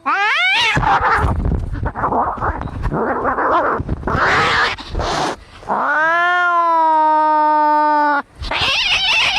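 Cats fighting: a short rising yowl, then several seconds of harsh hissing and spitting, then one long held yowl of about two and a half seconds, and harsh hissing again near the end.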